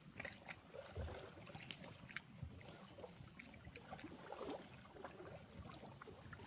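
Faint scattered clicks and soft knocks, with one low thump about a second in and a sharp click a little later, over quiet background; a steady thin high-pitched whine comes in about four seconds in.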